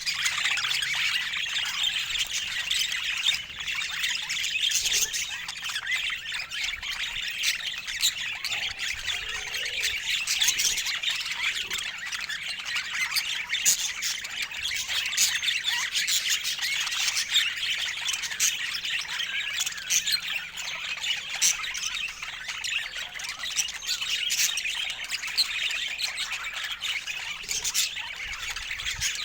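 A group of budgerigars chattering continuously: a dense warble full of short, sharp calls.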